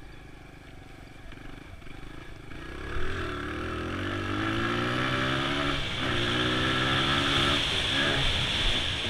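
Honda XR100 dirt bike's small four-stroke single-cylinder engine running low for a couple of seconds, then opening up and revving higher about three seconds in, with short dips near six and eight seconds as the pitch drops and climbs again.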